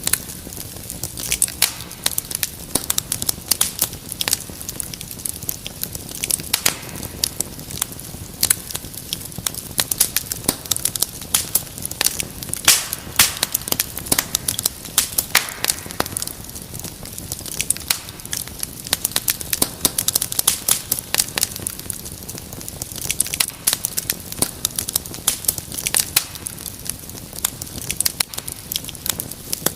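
Wood fire crackling: frequent, irregular sharp pops and snaps over a steady low hiss of burning.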